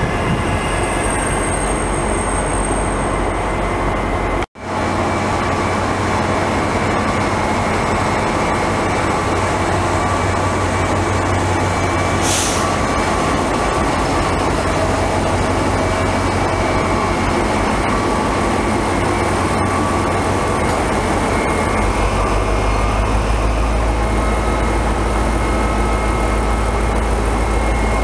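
Railway train at a station: steady locomotive and rolling-stock machinery noise with several steady tones, broken off for an instant about four seconds in. A short hiss of air sounds near the middle, and a deeper low rumble joins near the end.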